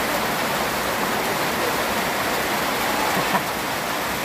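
Steady rain, a loud, even hiss with no breaks.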